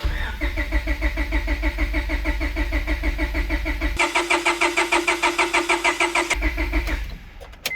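Honda H22 engine cranked over on its starter motor with the ignition disconnected, so it turns without firing: an even pulsing churn of about five beats a second, priming the oil and power steering pump. It changes tone about halfway through and stops near the end.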